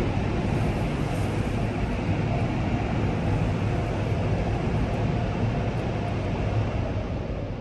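Steady rush of a PDQ Laserwash 360+ touch-free car wash spraying water onto the car, with a deep rumble underneath.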